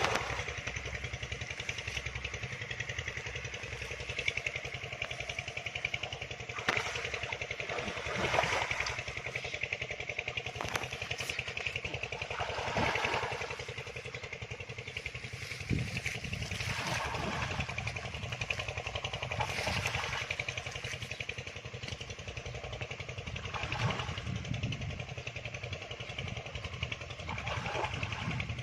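An engine running steadily at an even pitch, with a few short, louder sounds over it now and then.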